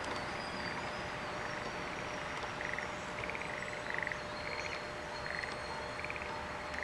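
Frogs croaking: short, rapidly pulsed calls repeating about once or twice a second over a steady background hiss.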